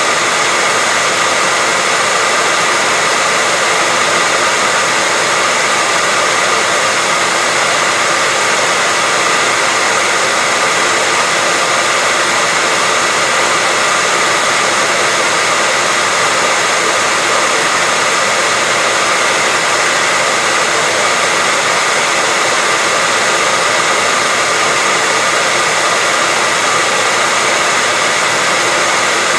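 Hair dryer blowing steadily, a constant rushing of air with a faint high motor whine, unchanging throughout.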